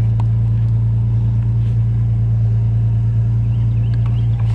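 Pickup truck engine running steadily, a low even hum with a few faint clicks over it.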